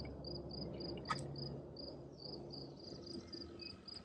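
Insect, likely cricket, chirping steadily in short high pulses, about three a second, over a low steady rumble, with one sharp click about a second in.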